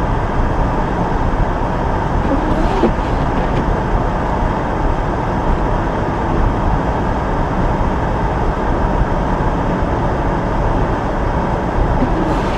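Steady road noise from inside a moving car: engine and tyres on a snow-covered road, an even rumble that doesn't change.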